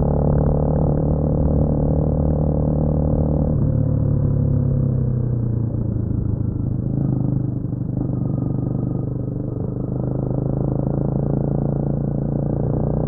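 Honda CMX250 Rebel motorcycle engine running at a steady pace under way, its pitch dropping about three and a half seconds in as it eases off, then a little quieter before building again near the end.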